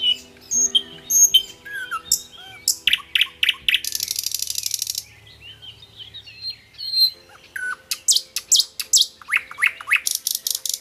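Several birds singing: quick whistled chirps and glides, with a fast buzzing trill about four seconds in and again near the end, over low sustained tones.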